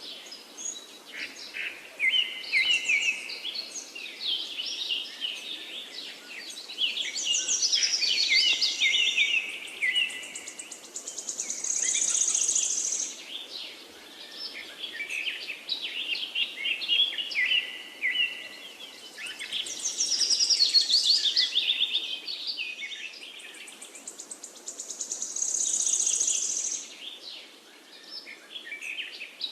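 Several songbirds singing and chirping at once in quick, overlapping phrases, with a high rapid trill that comes back a few times.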